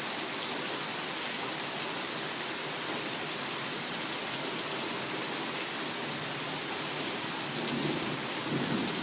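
Heavy rain falling steadily in a thunderstorm, an even hiss of downpour. A low rumble of thunder comes in near the end.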